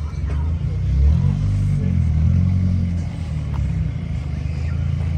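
Car engine running, revving up and back down twice.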